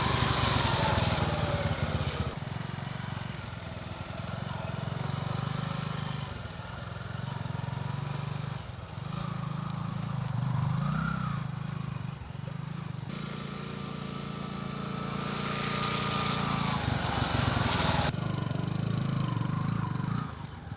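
Bajaj Boxer 150's single-cylinder four-stroke engine running while the motorcycle is ridden, its note rising and falling, with a few abrupt changes where clips are cut together.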